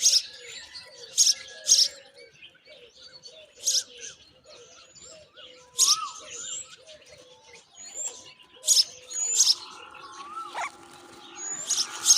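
Myna birds calling: short, harsh screeches repeated at irregular intervals, about eight in all, over softer whistles and chirps.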